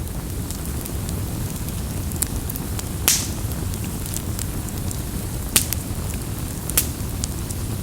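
Campfire burning with a steady low rumble and scattered crackles and pops; there are three louder, sharper pops, the longest about three seconds in.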